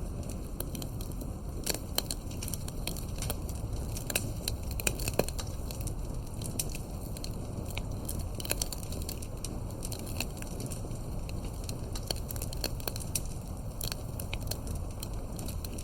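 Campfire crackling: burning firewood gives irregular snaps and pops over a steady low rumble.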